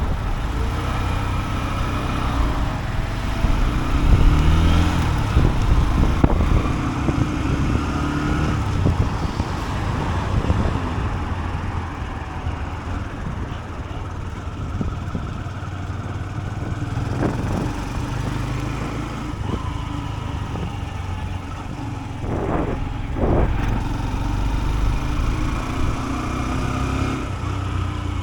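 Honda CB125F's single-cylinder four-stroke engine running while riding, its pitch rising and falling several times with throttle and gear changes, over a steady low rumble.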